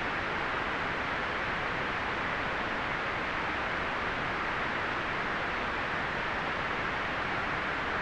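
Steady white noise: an even, unchanging hiss with no breaks, fullest in the middle of the range and less bright at the top.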